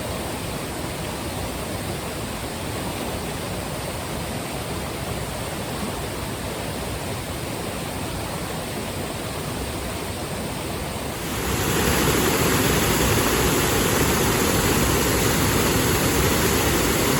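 Waterfall rushing steadily, a constant wash of falling water. About eleven seconds in it suddenly becomes louder and brighter, as if from much closer to the falls.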